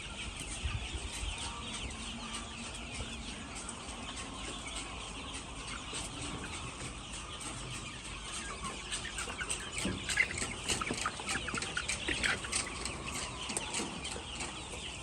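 A flock of many chickens clucking and calling all at once in a dense, continuous chatter, growing busier and louder from about nine to thirteen seconds in.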